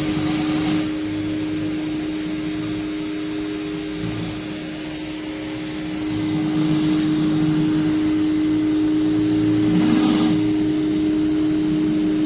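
Electric pressure washer (Greenworks, 1800 psi) running with a steady hum and water hiss while driving an 11-inch surface cleaner over concrete. It gets louder about halfway through, with short bursts of sharper spray hiss at the start and near the end.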